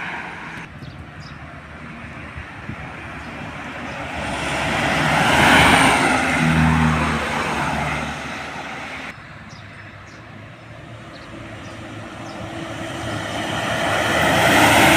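Two heavy trucks passing on a road, one after the other, each growing louder as it approaches and fading as it goes by. The first passes about five to six seconds in, with its diesel engine note heard as it goes past; the second builds to its loudest near the end.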